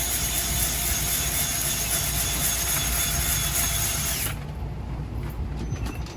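Handheld power tool with a cleaning attachment running at a steady speed, a high whine over a loud hiss, scrubbing an engine part. It cuts off about four seconds in.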